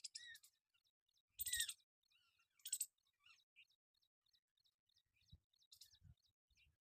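Birds calling: a regular run of faint, high chirps, broken by two short, loud, harsh calls about one and a half and nearly three seconds in.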